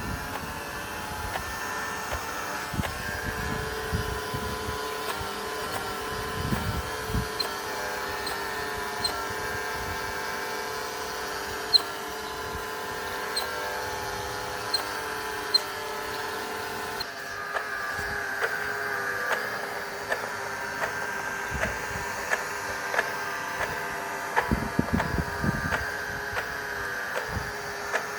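Small electric motor running steadily with a whine. Its pitch and tone shift about two-thirds of the way through, and there are scattered clicks and low knocks of handling.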